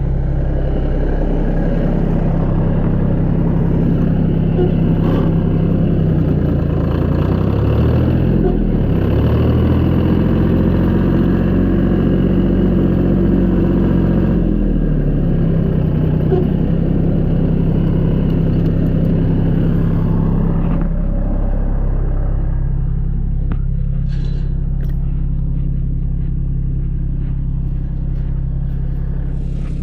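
A vehicle engine running steadily, its pitch rising about nine seconds in, held higher for several seconds, then dropping back as the engine eases off.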